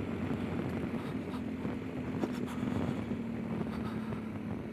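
Motorcycle engine running at a low, steady pitch while riding slowly, with wind noise on the microphone and a few faint clicks.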